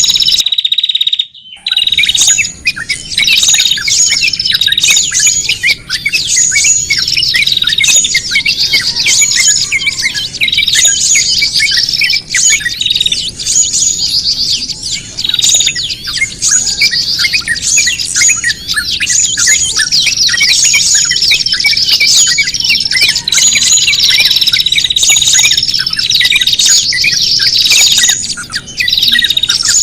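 A dense chorus of small songbirds chirping and squawking noisily over one another in rapid, overlapping calls, with repeated call phrases. This is a bird-lure recording of agitated small birds, the alarm-type racket meant to draw others in. It breaks off briefly about a second in.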